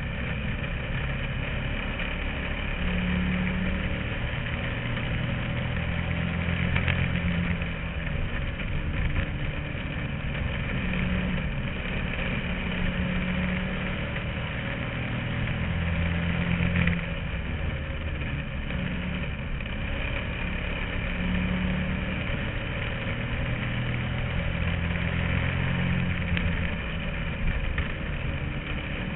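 Bandolero race car's engine, heard from inside the car, running with its pitch rising and falling every few seconds as the car laps the oval.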